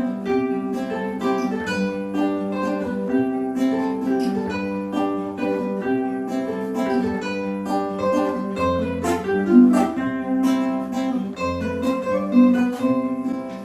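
Instrumental interlude of a Portuguese folk song: acoustic guitars and other plucked strings playing a steady strummed and picked accompaniment, with no singing.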